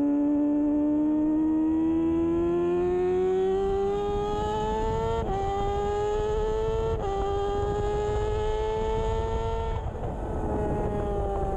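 Kawasaki Ninja 636 inline-four engine pulling hard through the gears: its pitch climbs steadily, drops sharply at upshifts about five and seven seconds in and climbs again, then falls near the end as the throttle eases off. A steady rush of wind runs underneath.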